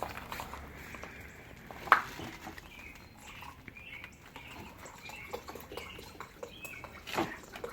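Can of paint reducer being handled and poured into a mixing bucket: small clicks and knocks, with a sharp clack about two seconds in and another near the end, and short faint gurgles in between.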